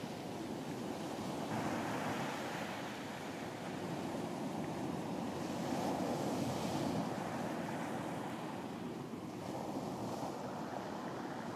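Ocean surf washing onto a beach: a continuous rush of breaking waves that swells and falls back every few seconds.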